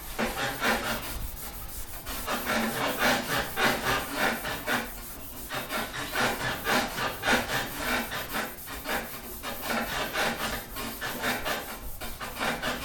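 Back-and-forth rubbing strokes of a pad or sanding block over a primed car body panel, about two strokes a second, with a couple of brief pauses.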